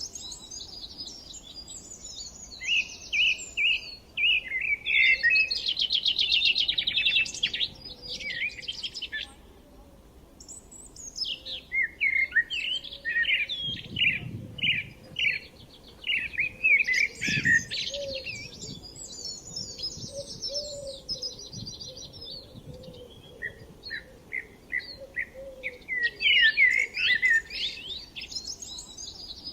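Birds singing and chirping, a mix of short repeated chirps and fast buzzy trills, with a brief lull about ten seconds in.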